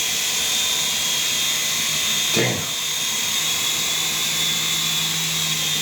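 Small electric RC helicopter flying, its motor and rotor giving a steady high-pitched whine.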